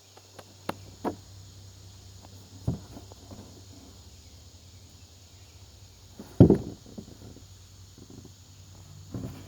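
A few scattered soft knocks and rustles, the loudest a dull thump about six seconds in, over a faint low steady hum.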